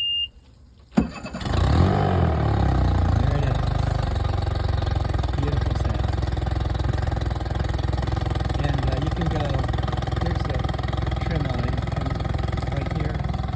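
Mercury 40 HP four-stroke EFI outboard engine being started: a short beep ends right at the start, a click comes about a second in, then the engine cranks, catches, revs briefly and settles into a steady idle.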